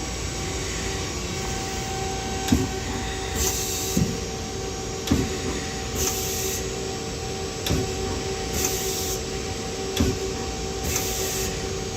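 Doosan Lynx 220 LSYC CNC turning center running with a steady hum while its tool turret indexes through tool changes. A sharp clunk comes every second or two, and a short hiss about every two and a half seconds.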